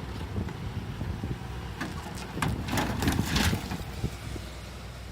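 Low rumble of a vehicle on the road with wind on the microphone, broken by a cluster of sharp bangs and crunches from about two to three and a half seconds in, likely a collision.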